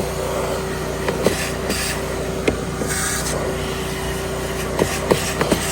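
Wet/dry shop vac running steadily with a constant whine, its nozzle sucking up leftover water from the door's crevices. A few short sharp clicks come through, several near the end.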